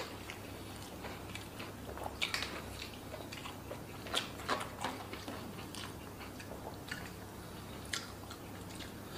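Close-miked chewing of a mouthful of rice and fried fish eaten by hand, with scattered wet mouth clicks over a faint steady hum.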